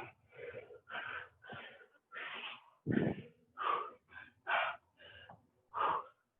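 A person breathing hard during a high-intensity workout: short, forceful breaths about two a second, with a louder, deeper one about three seconds in.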